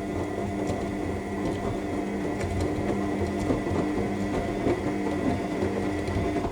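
AEG 7000 Series washing machine in the main wash: the drum motor running with a steady hum and whine while the drum turns the laundry, with scattered soft clicks and knocks.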